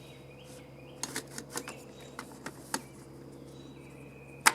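Scattered light clicks and taps of a recoil starter assembly being fitted back onto a small two-stroke engine, with a sharper, louder click near the end.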